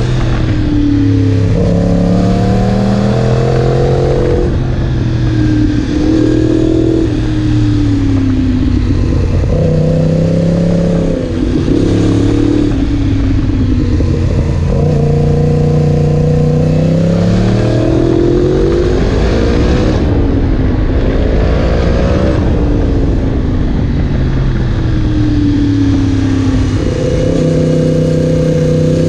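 Yamaha MT-10 SP's crossplane inline-four running through an Akrapovic exhaust, its pitch rising and falling over and over as the engine revs up and drops back.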